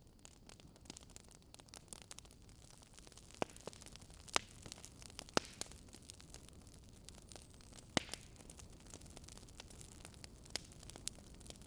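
Campfire crackling: burning firewood giving irregular sharp snaps over a low steady hiss, with a few louder pops about four, five and eight seconds in.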